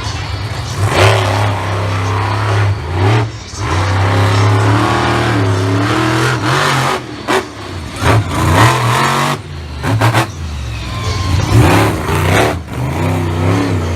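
Monster truck engine revving hard, its pitch climbing and falling as the throttle is worked, with several short drops where the throttle is chopped.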